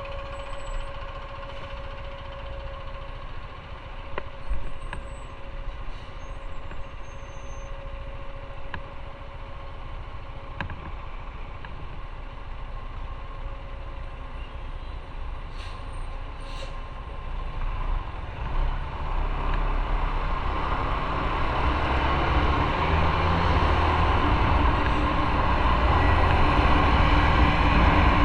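Motorcycle ride in traffic with heavy vehicles near; the engine and road noise grow steadily louder from about two-thirds of the way in as the bike gains speed.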